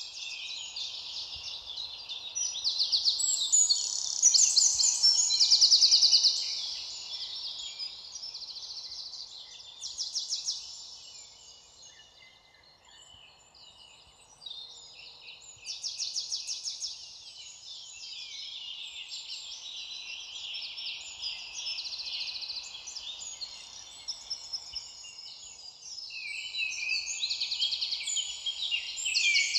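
Several songbirds singing at once in a dense chorus of overlapping high chirps and trills. It is loudest a few seconds in, thins out briefly about halfway through, then builds again.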